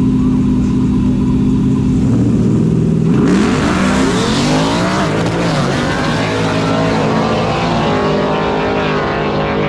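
Two pickup trucks, an OBS Chevy and a Ford F-150, run at the start line. About three seconds in they launch, and their engines rev hard and climb in pitch as they accelerate down the drag strip. The engine notes rise and fall across each other as the trucks run away, and engines settle to a steadier sound near the end.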